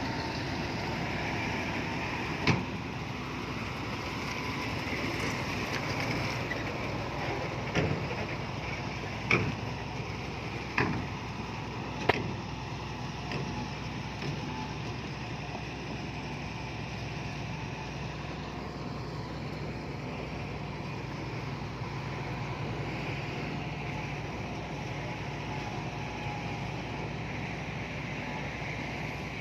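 Heavy earthmoving machine's diesel engine running steadily, with five sharp metallic clanks spread over the first half.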